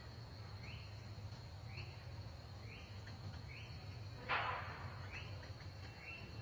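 Outdoor ambience: a bird giving short rising chirps about once a second over a steady high insect drone, with one brief harsh burst of noise about four seconds in.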